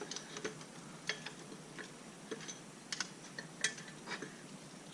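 Light metallic clicks and taps coming irregularly, about one every half second, from small tools and metal parts being handled during work on a dirt bike's brake caliper.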